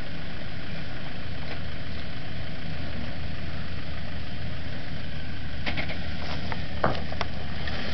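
Land Rover's engine running steadily at low revs while the vehicle crawls through deep mud ruts. A few short, sharp sounds break in near the end.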